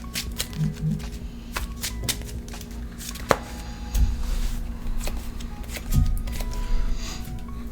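Trading cards being handled on a table: a run of quick clicks and slaps as cards are drawn and laid down, with one sharp snap about three seconds in. Quiet background music plays under it.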